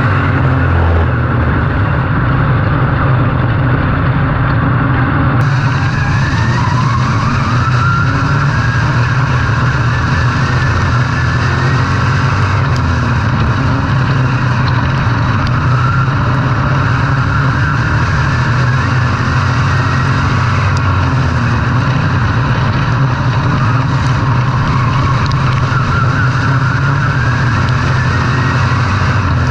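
Race car engines running hard without a break, their pitch rising and falling as the throttle opens and closes.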